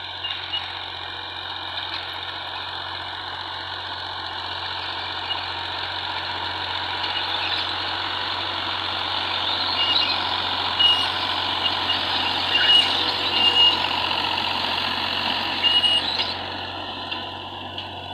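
John Deere tractor running under load while pulling a disc harrow: a steady engine drone with a dense metallic rushing noise. It grows louder through the middle, with short high squeaks and clanks in the second half, and eases off near the end.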